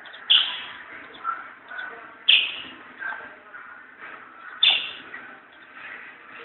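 A white-eye calling: three loud, sharp notes that fall in pitch, about two seconds apart, with softer chirps between them.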